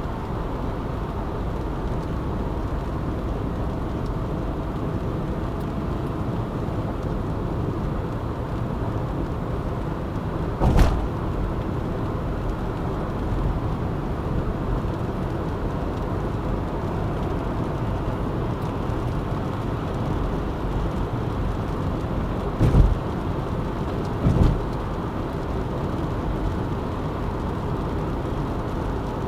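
Steady road noise of a car driving along a city ring road, with three brief thumps: one about 11 seconds in and two close together near 23 and 24 seconds.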